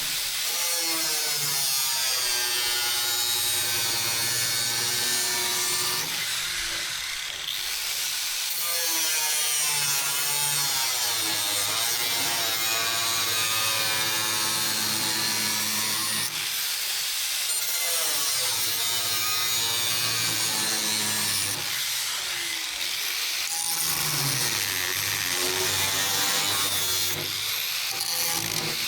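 A tool cutting or grinding the steel of an old saw blade: a steady scraping noise with tones that keep shifting in pitch, briefly easing off a few times.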